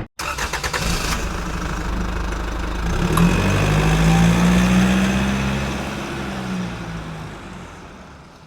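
Diesel engine of compact earthmoving equipment running, rising in pitch about three seconds in, then fading away near the end.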